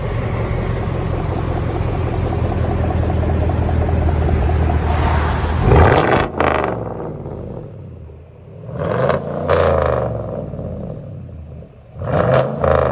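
5.3-litre V8 of a GMC Sierra pickup running through a straight-piped true dual exhaust. It runs steadily for about six seconds, then is revved in three sharp blips: about six seconds in, around nine to ten seconds, and again near the end.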